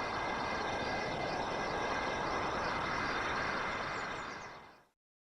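Steady, even background noise with a few faint high chirps, fading out to silence about four and a half seconds in.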